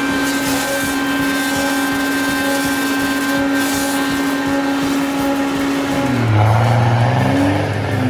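An engine running at a steady, even speed. About six seconds in, the note changes to a lower, rougher engine sound.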